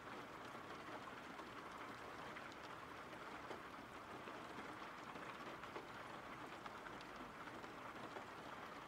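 Faint, steady rain: an even hiss with a few light drop ticks.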